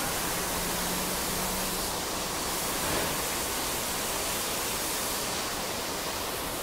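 Heavy rain falling, a steady even hiss, with a faint low hum in the first couple of seconds.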